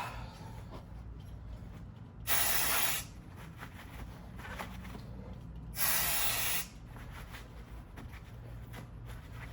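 Aerosol spray can sprayed in two short bursts of hiss, each under a second, about three and a half seconds apart.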